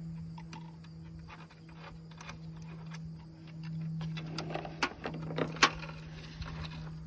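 Scattered small clicks and taps of hand work on hardware over a steady low hum. The clicks grow busier about four seconds in, with one sharp click near the end.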